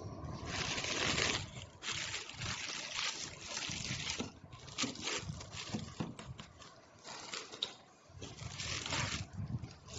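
Irregular scraping and rustling with scattered small clicks, quieter swells coming and going.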